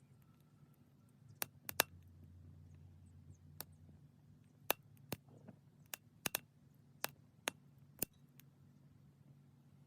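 Small wood fire crackling, with about a dozen sharp, irregular pops over a steady low hum.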